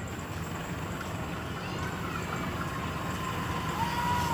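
KA Brantas passenger train rumbling steadily and growing slowly louder as it comes in, with a thin high tone briefly near the end.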